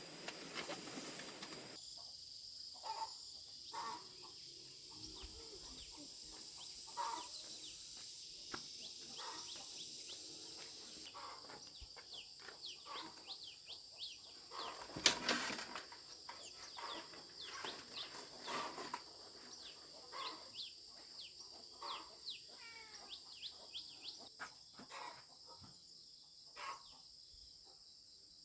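Chickens clucking and chicks peeping in many short, falling chirps, over a steady high insect drone. There is a single sharp knock about halfway through.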